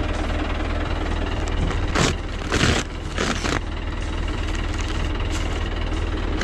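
New Holland 65-56 tractor's diesel engine running steadily, with a low knocking hum. About two seconds in there are three short loud rushes of hiss-like noise.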